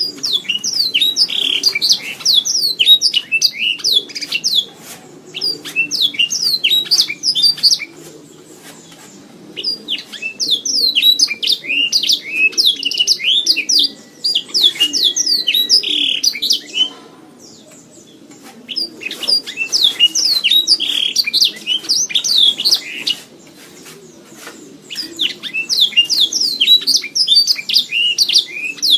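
Domestic canary singing in four long bouts of rapid chirps and trills, with pauses of one to two seconds between them.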